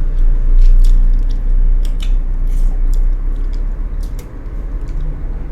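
Close-up chewing and lip smacks of people eating braised pork knuckle (pata tim), with irregular sharp clicks over a steady low hum.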